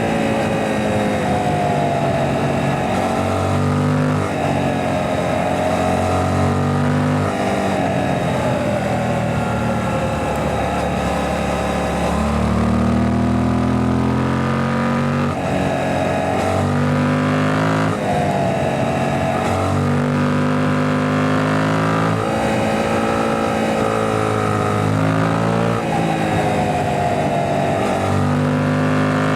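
Suzuki GSX-8S 776 cc parallel-twin engine heard from onboard while riding, the revs climbing and dropping over and over as it accelerates, shifts gear and rolls off between corners.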